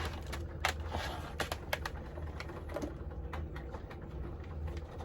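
Scattered light clicks and taps at irregular intervals, like small objects being handled and set down, over a steady low hum.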